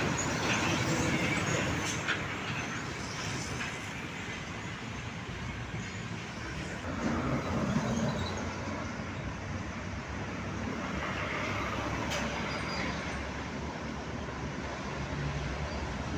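Vehicle noise: a steady rumble of passing road traffic, swelling briefly about seven seconds in.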